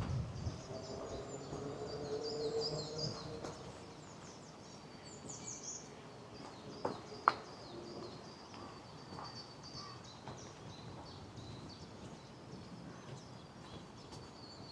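Small birds chirping and singing in woodland, with short high chirps and trills throughout. A sharp click comes about seven seconds in, followed by a louder one just after.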